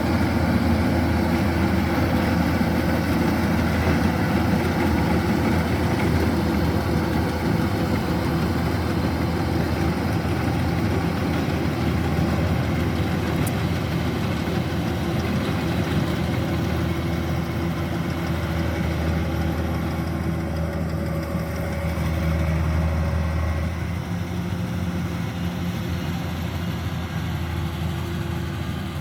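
Kubota DC-105X combine harvester's diesel engine and threshing machinery running steadily while harvesting rice, a continuous low drone that eases slightly near the end.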